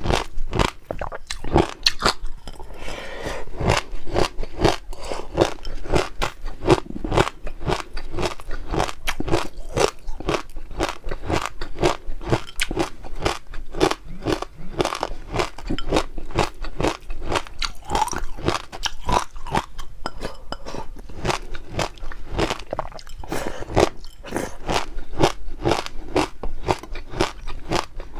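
Close-miked chewing of crunchy popping pearls, water-chestnut-filled jelly balls: a rapid, unbroken run of crunching and crackling bites, several a second.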